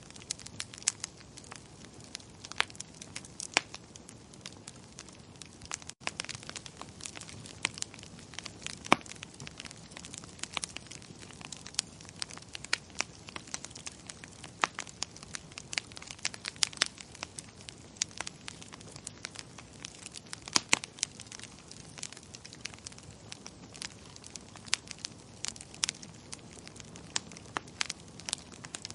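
Wood fire crackling in a fireplace: irregular sharp pops and snaps, several a second, over a steady low background of the burning fire.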